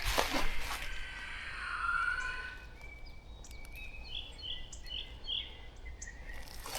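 A bird calling over a steady background rush: a few drawn-out whistled notes, then four short chirps in quick succession about halfway through.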